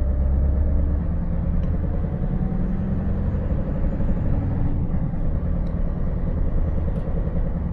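Scania 590S truck's V8 engine running steadily under way, a continuous low rumble mixed with the hiss of the road.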